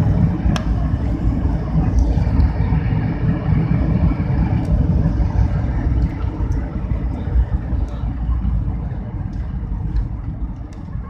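Airbus A320 cabin noise on the landing roll: a loud, steady low rumble of the engines and the wheels on the runway, easing off over the last few seconds as the aircraft slows.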